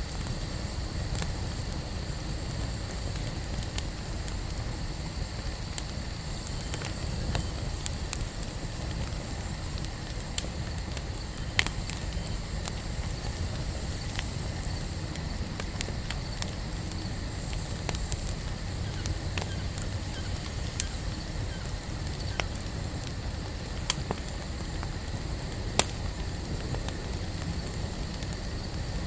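Wood campfire burning, crackling steadily over a low rumble of flames, with a handful of sharp, louder pops scattered through.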